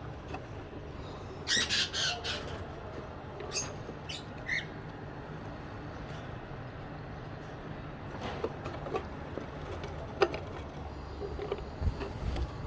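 Caged birds giving a quick run of harsh squawks about two seconds in, then a single short call, followed by scattered light clicks and knocks over a faint steady hum.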